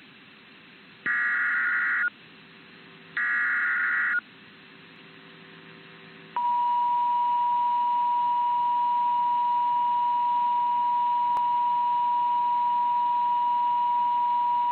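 NOAA Weather Radio emergency alert signalling: two roughly one-second bursts of the warbling SAME digital header, then, about six seconds in, the steady single-pitch warning alarm tone starts and holds. It announces a new warning message, here a tornado warning.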